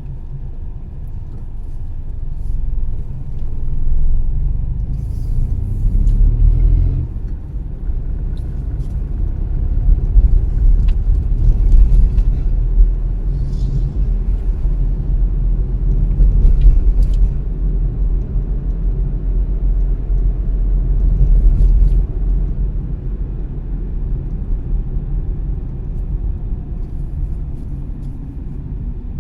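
A car driving, its low road and engine rumble swelling and easing as it goes, with a few faint clicks over it.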